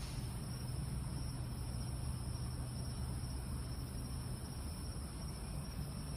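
Night ambience: a steady, high-pitched chorus of crickets over a constant low rumble.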